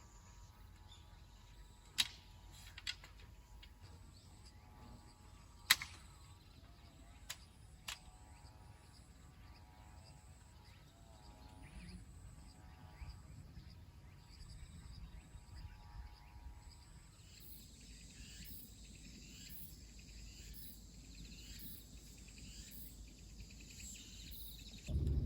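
Quiet outdoor ambience with a few sharp clicks or taps in the first eight seconds, and faint high chirps repeating about once a second in the second half.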